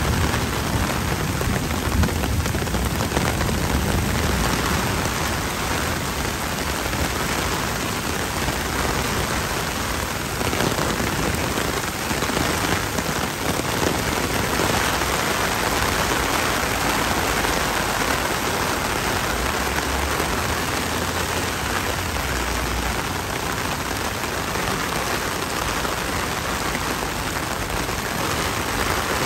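Record-breaking heavy downpour: a steady, dense hiss of rain pelting the wet pavement and drumming on an umbrella held overhead.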